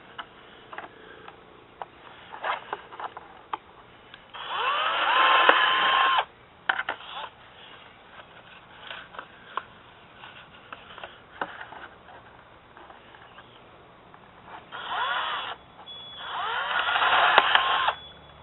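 Power drill boring holes through a coffee can: two runs of about two seconds each, one about four seconds in and one near the end, with a short burst just before the second. Each run is a whine that rises as the motor spins up and then holds steady. Small clicks and knocks of handling come in between.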